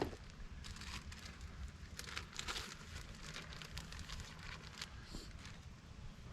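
Irregular crinkling and snapping of kindling and dry leaves being handled and arranged in a campfire pit, many small crackles in quick succession.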